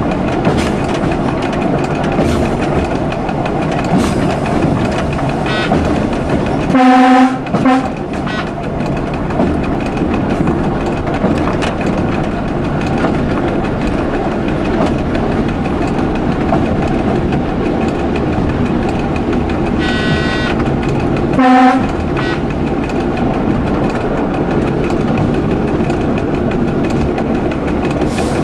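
Local passenger train running along the line, heard from the driver's cab, with wheels clicking over rail joints. The train horn sounds twice: a longer blast about seven seconds in, the loudest sound here, and a short one about twenty-one seconds in.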